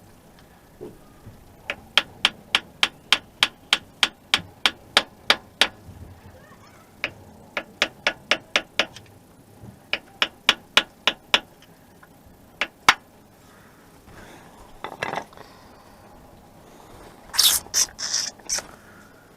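Hand ratchet wrench clicking in runs of sharp, evenly spaced clicks about three a second, while working a bolt on the engine, with a few louder metallic clanks of tools near the end.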